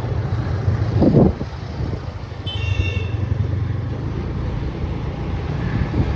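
A motor vehicle engine running with a steady low hum, with a short loud burst about a second in and a brief high-pitched tone about two and a half seconds in.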